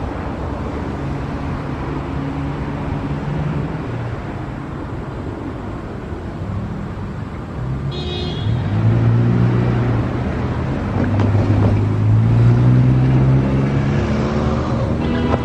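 Diesel locomotive engines running and growing louder as a train approaches, with a short high-pitched tone about eight seconds in and a horn starting right at the end.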